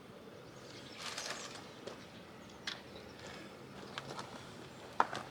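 Quiet outdoor background with a few faint, scattered clicks and knocks and a brief soft hiss about a second in; the sharpest click comes about five seconds in.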